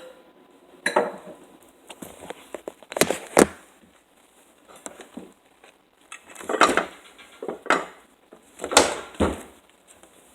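Dishes and cups clinking and knocking against each other as they are handled in a kitchen while a cup is being looked for: a series of separate sharp clatters, about seven of them.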